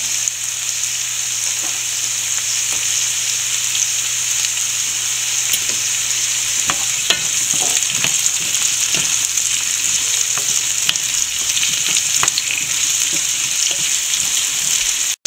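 Sliced onions, capsicum and green chillies sizzling in oil as they sauté in a frying pan. From about halfway through, a wooden spatula stirs them, scraping and clicking against the pan. The sound cuts out for a moment at the very end.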